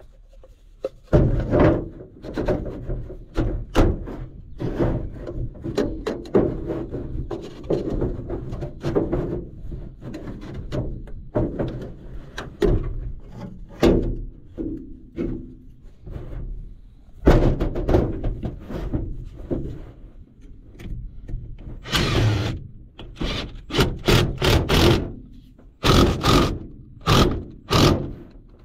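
Irregular knocks, thumps and rubbing of parts and tools being handled. Several louder, sharper clatters come near the end.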